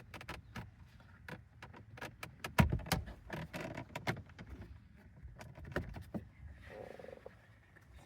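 Plastic dashboard trim of a 2012 Honda Civic being handled and pried loose by hand: a run of sharp clicks, knocks and rattles, with the loudest knock about two and a half seconds in.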